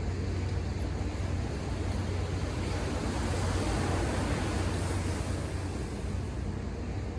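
Ocean surf breaking on the shore. One wave's wash swells about midway and then fades, over a steady low rumble.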